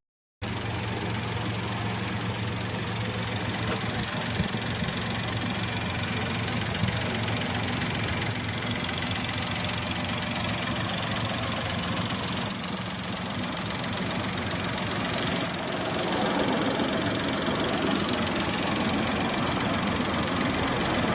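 Suzuki Alto Works (HA36S) 660 cc three-cylinder turbo engine running at a steady speed through an aftermarket Trust exhaust muffler.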